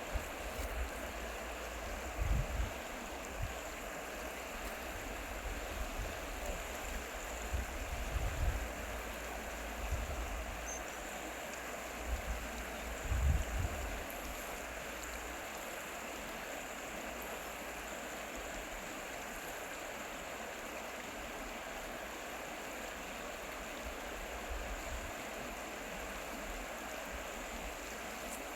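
Stream water flowing and splashing in a steady, even rush. A few short low bumps come in the first half of the clip.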